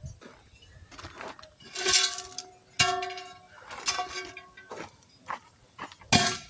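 A metal tool striking a steel wheel rim, knocking at an old wheel weight that has been stuck on a long time: four hard metallic clangs that ring on briefly, with lighter taps in between.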